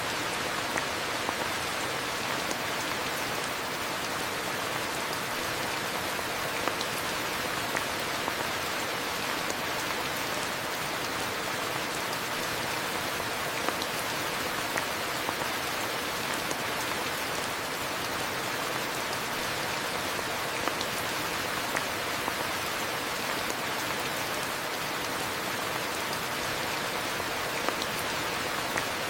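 Steady rain falling: an even, dense hiss with scattered sharper drop hits on surfaces.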